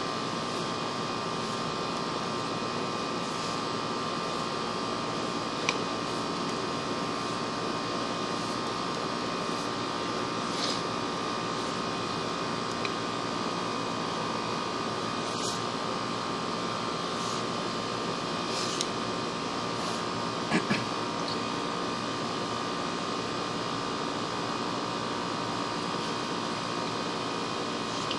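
Steady electrical hum with a constant high tone, from the sewer inspection camera system as its head is pushed down the drain line. A few faint clicks sound now and then, the clearest about six and twenty seconds in.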